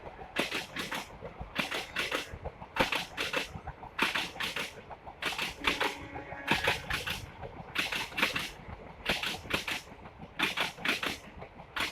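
Wheels of a passing express train's coaches clattering over rail joints: rhythmic pairs of sharp clicks repeating about every 1.2 seconds.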